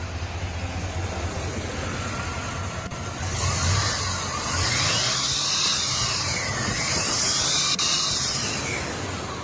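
A car's 5.7-liter V8, a swap into a 1983 Buick Regal, running with a steady low hum. From about three seconds in it is joined by a louder hissing rush and a whine that falls and rises.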